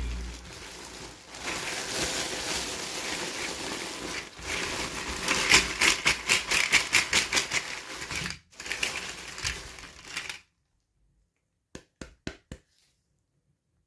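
Toy packaging being handled and opened: crinkling and rustling, with a run of rapid clicks partway through. It stops suddenly, then comes a few quick taps.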